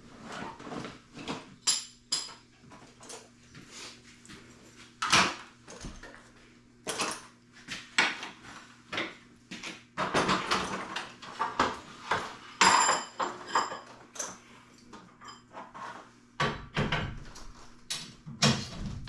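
Metal tools and garage door hardware being handled: irregular clinks, clanks and knocks, some ringing briefly, over a faint steady hum.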